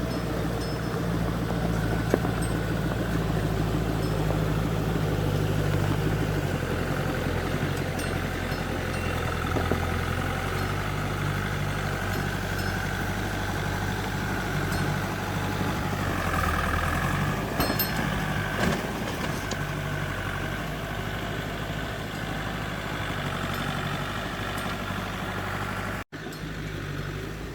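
Excavator's diesel engine running steadily, its pitch shifting a few times as the machine works. The sound breaks off for an instant near the end.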